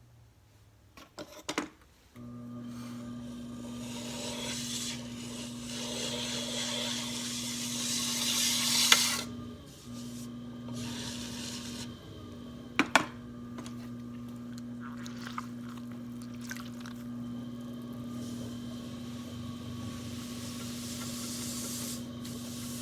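Electric potter's wheel motor running with a steady hum that starts about two seconds in, with hands and tools scraping and rubbing on the wheel over it and a couple of sharp knocks.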